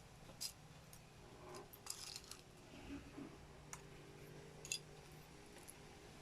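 Small plastic building bricks being handled and pressed together: a few scattered faint sharp clicks over a low steady hum.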